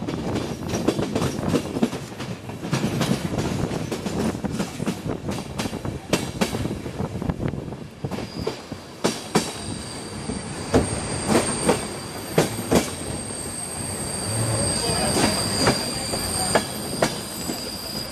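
Passenger train running on the rails, heard from on board: a steady rumble with sharp clacks of the wheels over rail joints. From about halfway a high, steady wheel squeal joins in and holds.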